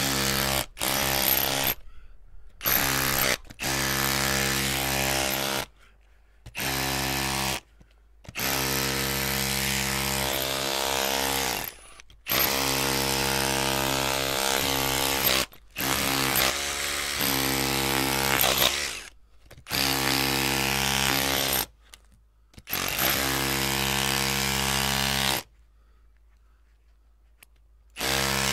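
Electric drill running in repeated on-off bursts, each lasting from under a second to about three seconds, with short gaps between them; the motor holds one steady pitch while it runs. Near the end it stops for about two and a half seconds before one last short burst.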